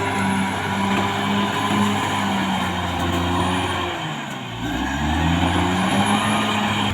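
Caterpillar D6R XL bulldozer's diesel engine running under load, with a low drone that pulses about twice a second. About four seconds in, the engine note sags and then climbs back up.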